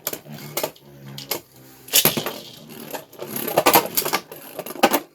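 Beyblade Burst spinning tops, a 3D-printed Dragoon S against Storm Spriggan, clashing and rattling in a plastic stadium: a rapid run of sharp clacks, thickest about two seconds in and again near the end.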